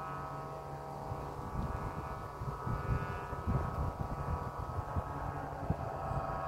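Wind gusting against the microphone in irregular low rumbles that grow stronger after the first second or so, over a steady, multi-toned hum.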